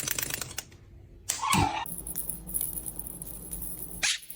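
A pet parrot giving one short call about a second and a half in, after a run of rapid, even clicking that stops about half a second in.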